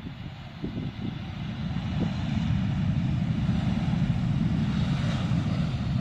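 Jet airliner coming in to land, a steady low rumble that builds over the first couple of seconds, with a rushing hiss that swells about five seconds in.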